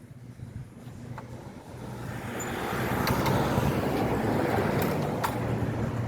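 A car driving past on the road, its tyre and engine noise swelling over the first few seconds and staying loud.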